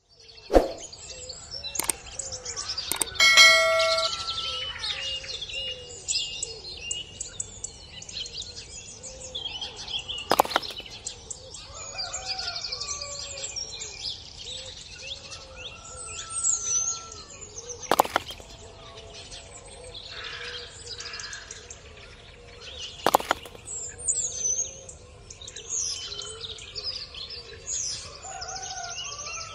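Birds chirping and twittering throughout, with a bright ringing ding about three seconds in and three sharp knocks spread through.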